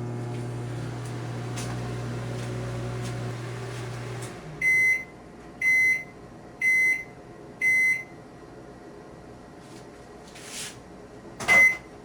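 Microwave oven running with a steady low hum that stops about four seconds in, followed by four short beeps about a second apart signalling the end of the cooling cycle. Near the end, a click and then one more short beep with a knock.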